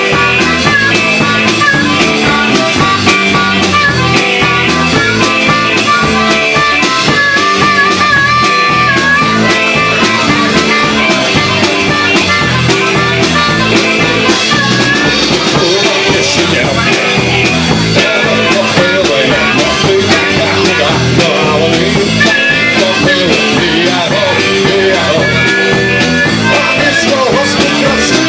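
Live rockabilly band playing loud, with guitar lines over a steady, driving drum beat.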